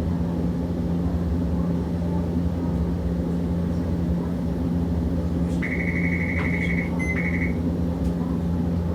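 Steady low hum inside a Hiroshima Electric Railway 650-type tram. About five and a half seconds in, a buzzer sounds for over a second, breaks off briefly, then sounds again shortly.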